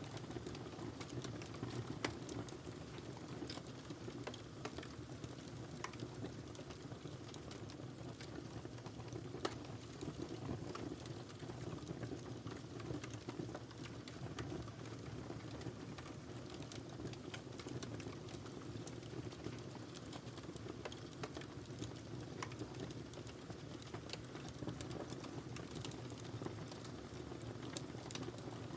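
Wood fire crackling in a fireplace: a steady low rumble of burning with irregular small snaps and pops throughout. Two sharper pops stand out, about two seconds in and again near ten seconds.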